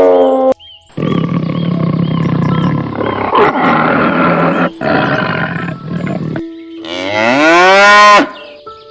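Cattle mooing: a long, rough, low call, then a clearer pitched moo that bends in pitch about seven seconds in.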